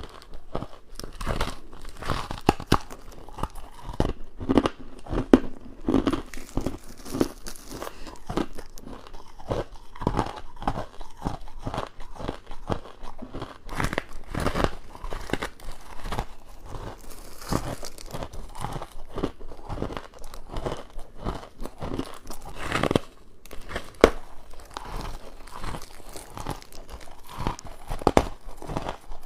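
Close-miked bites into frozen frost and crushed ice: crisp, crinkly crunches, several a second, one after another.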